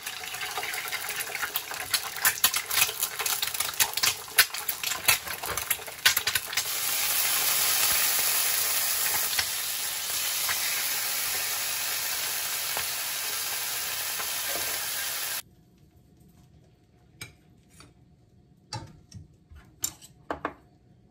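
Egg and ham slices frying in an oiled nonstick pan, sizzling with frequent crackling pops and then a steadier, louder sizzle. The sizzle cuts off suddenly about fifteen seconds in, and a few light clicks of chopsticks on a glass plate follow.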